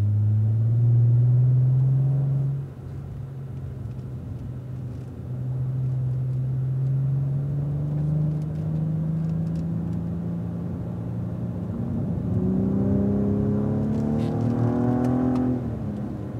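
Cadillac ATS-V's twin-turbo V6 heard from inside the car while pulling in third gear. The engine note climbs, drops off sharply about two to three seconds in, then builds again and rises steeply under hard acceleration before cutting off near the end at the upshift to fourth.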